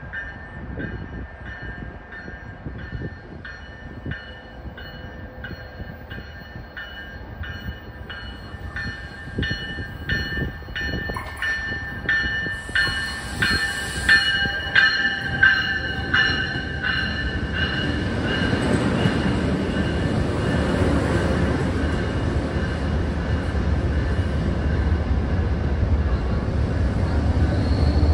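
MBTA commuter rail train arriving: its bell rings in steady repeated strokes that grow louder as it approaches. From about two-thirds of the way through, the bell gives way to the rising rumble of the train rolling in alongside the platform.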